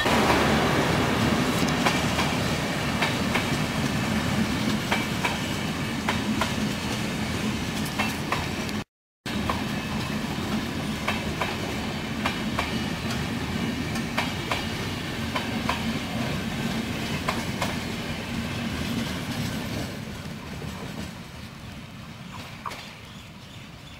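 Rajdhani Express coaches passing close by at speed: a steady rumble with wheels clacking over the rail joints. The sound cuts out briefly about nine seconds in, then fades near the end as the train draws away.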